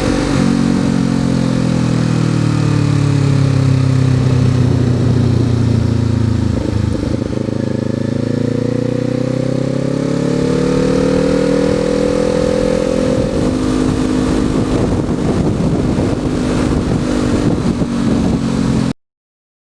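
Kawasaki Z400's parallel-twin engine with an Akrapovic exhaust, heard from the bike while riding: the engine note falls as the bike slows, then rises steadily through a long pull as it accelerates and levels off. The sound cuts off abruptly near the end.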